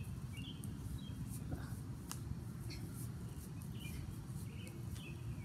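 Outdoor backyard ambience: a steady low rumble with short bird chirps every second or so and a faint click or two.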